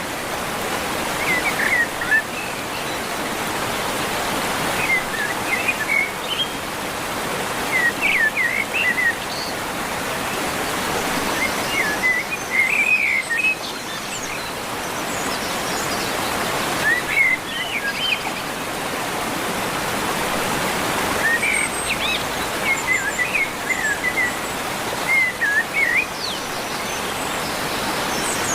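Birds chirping in short bursts of quick high notes, a cluster every few seconds, over a steady rushing background noise that slowly swells and fades.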